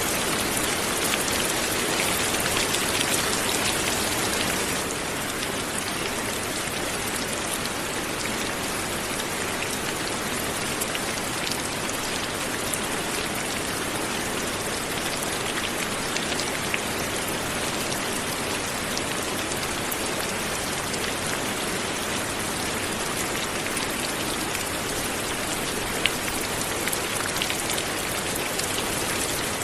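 Light, natural rain falling steadily, an even hiss with occasional louder single drops. It eases slightly about five seconds in.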